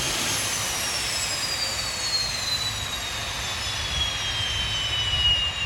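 Rolls-Royce Spey 205 turbofan jet engine running on a test bed, with a steady roar and a turbine whine that falls smoothly in pitch as the engine runs down. This comes during repeated attempts at reheat (afterburner) that fail to light because an amplifier module that monitors engine temperatures will not allow it.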